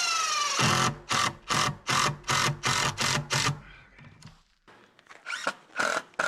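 Cordless drill/driver driving screws. The motor spins up with a rising whine, then runs with a steady hum under a regular series of loud strokes, about three a second. After a short pause, another short run of strokes comes near the end.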